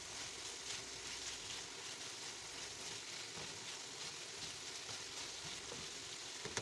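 Diced boneless chicken thighs frying in a pan: a steady sizzle with faint crackles, the meat a few minutes from done.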